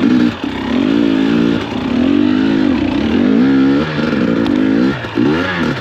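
2021 KTM 250 XC-W two-stroke dirt bike engine revving up and down over and over as it is ridden through fresh snow, with the rear wheel spinning in high gear.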